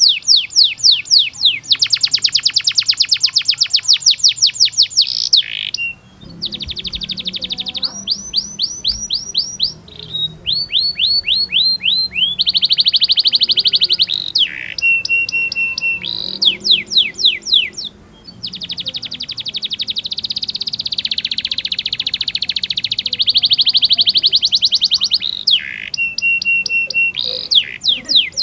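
Domestic canary singing a long song of fast trills and rolls: trains of rapid, repeated down-sweeping notes that change speed and pitch every second or two, with a few short steady whistles and brief breaks between phrases.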